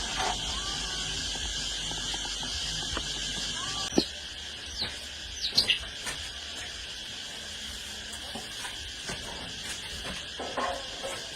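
A steady high insect drone, with a few short sharp knocks or clicks about four and five and a half seconds in.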